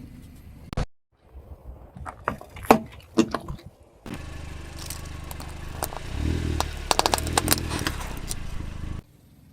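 Car tyre rolling over and crushing objects: a run of sharp cracks and crunches, then a car engine running steadily with more cracks over it. The engine sound cuts off suddenly near the end.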